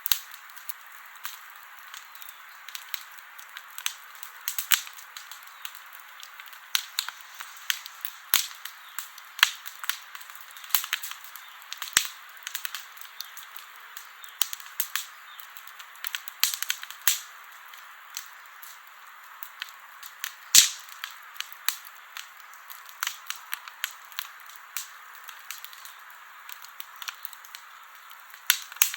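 Wood campfire crackling: a steady hiss under irregular sharp snaps and pops, with one louder pop about two-thirds of the way through.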